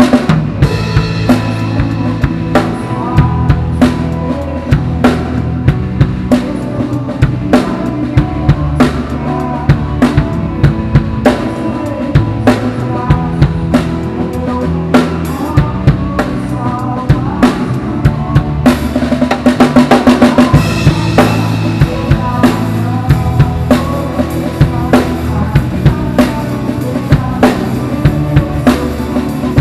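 Drum kit played along with a recorded worship-song track: steady kick and snare beat with cymbals over bass and guitar, the drums coming in right at the start. A dense, loud fill of rapid hits about two-thirds of the way through.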